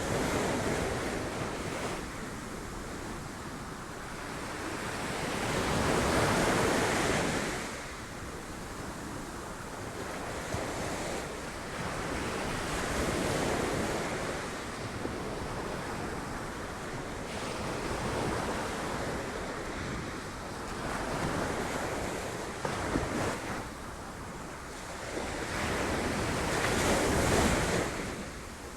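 Sea waves breaking on rocks, surging and ebbing every few seconds. The biggest surges come about six seconds in and near the end.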